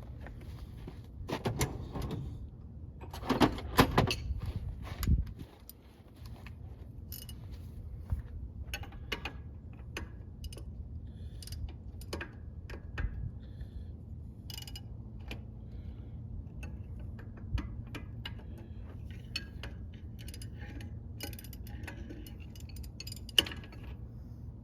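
Metal hand tools clinking and clanking as wrench and sockets are handled on the brake-chamber nuts, a cluster of louder clanks in the first five seconds and then scattered light clicks over a steady low hum.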